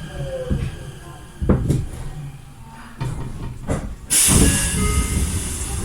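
Inside a Tokyo Metro 03 series railcar as it comes to a stop. A falling motor whine fades out, a few knocks and clunks come from the car, and about four seconds in there is a loud hiss of compressed air that lasts a second or two, as the train halts and its pneumatic doors open.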